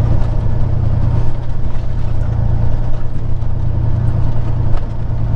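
Peterbilt 379's diesel engine running under way, a steady low drone heard inside the truck's cab.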